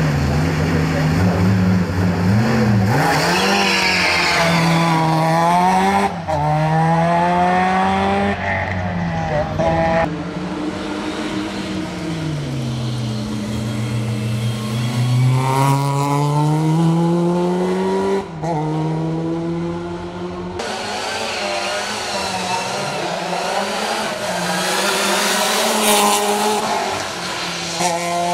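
VW Polo G60 race car's supercharged four-cylinder engine driven hard up a hill climb. Its pitch climbs and drops at each gear change, over several separate runs spliced together.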